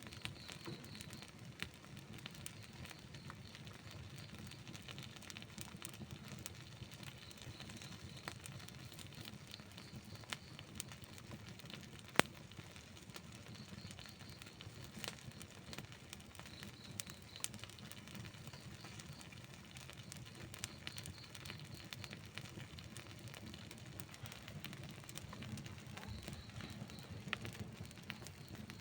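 Wood campfire burning: a steady low rumble of flames with frequent small crackles and pops from the burning wood. One sharp pop about twelve seconds in is the loudest.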